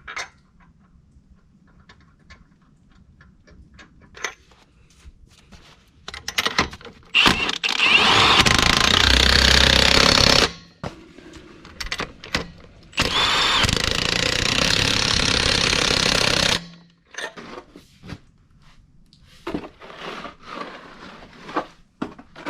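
Impact wrench running in two bursts of about three and a half seconds each, driving lug nuts onto a truck wheel, with clinks and knocks of handling before and after.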